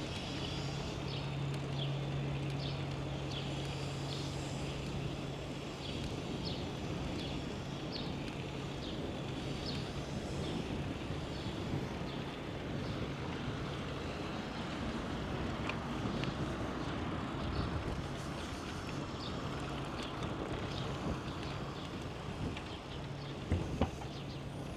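Steady outdoor rolling noise during a bicycle ride, with a low steady hum underneath and short high chirps scattered throughout. Two sharp knocks come close together near the end.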